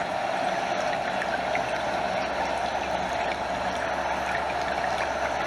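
A stream running steadily, a continuous rush of water with small trickles and splashes flecked through it.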